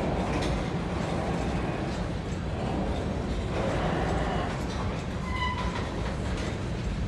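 Covered hopper cars of a freight train rolling past: a steady rumble of steel wheels on the rails, with a brief high squeal about five seconds in.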